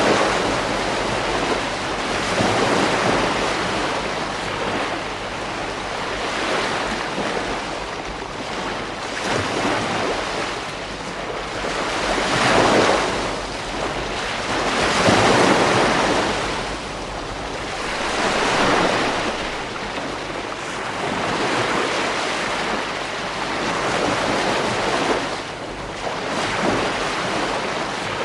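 Ocean surf breaking on a beach: a continuous wash that swells and falls back every few seconds, with the biggest breakers about halfway through.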